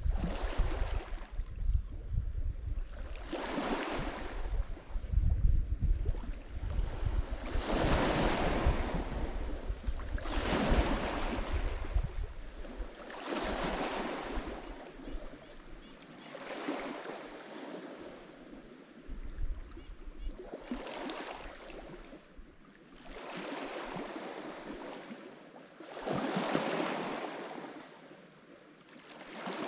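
Lake Michigan waves breaking and washing onto the shore one after another, a swell of surf every few seconds. Wind rumbles on the microphone through the first half, then dies away.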